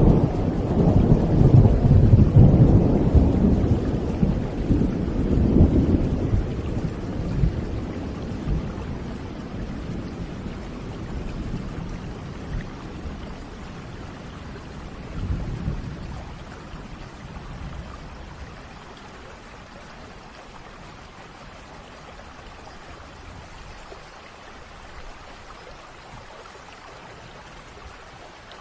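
Thunder rumbling low and long over steady rain, fading away over the first several seconds. A smaller rumble follows about fifteen seconds in, then only the even hiss of falling rain.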